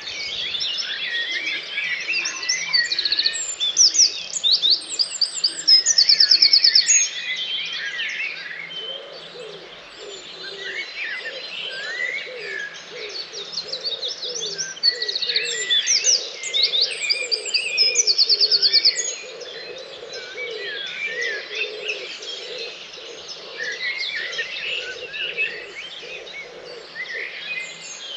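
Dawn chorus: many songbirds singing at once. One loud nearby bird sings the same phrase twice, each time ending in a fast, high trill. Lower warbling notes run beneath through the middle.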